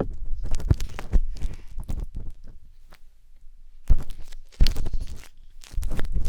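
A wooden skewer scratching and scraping in the silicone ears of a 3Dio binaural microphone, heard very close, in irregular bursts with heavy low rumbles. It drops off for a moment around the middle, then starts up again loudly.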